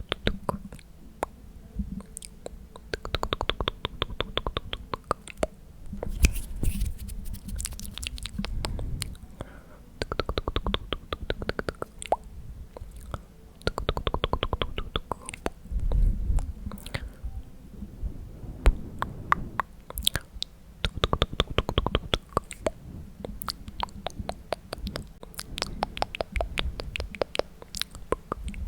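Close-miked ASMR mouth sounds: runs of rapid, wet tongue and lip clicks ('tk tk'), each run lasting a second or two and coming back every few seconds.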